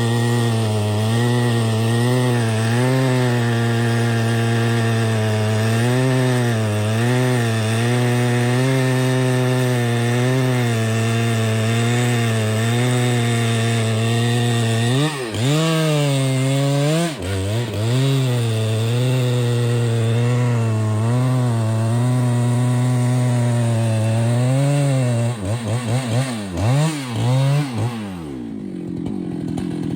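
Chainsaw engine running at high speed while cutting through a tree, its pitch wavering as the chain loads up. Near the end the throttle is blipped several times and the saw drops to idle.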